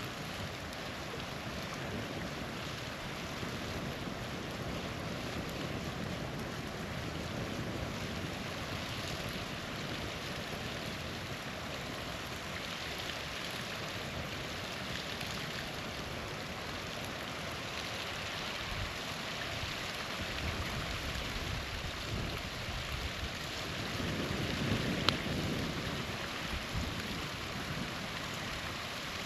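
Small waterfall rushing steadily, with one sharp crack from a campfire about 25 seconds in and a brief low rumble of wind on the microphone around it.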